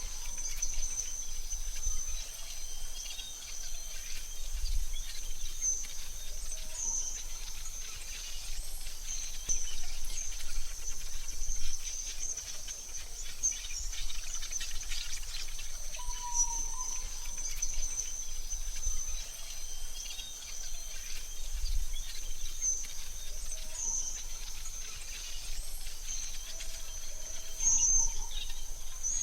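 AI-generated forest ambience: a steady high-pitched insect drone with occasional short bird chirps over a faint hiss. The pattern of chirps seems to repeat about every 16 seconds, like a loop.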